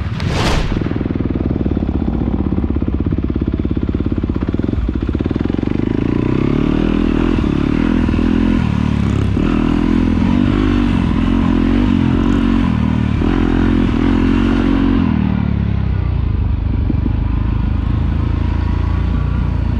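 Trail motorcycle engine running steadily as the bike is ridden, its engine speed rising and falling in the middle stretch, with a short whoosh at the very start.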